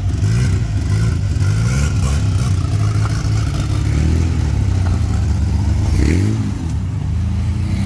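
Chevrolet Chevette's engine revving hard as the car accelerates away, its pitch rising in several repeated sweeps.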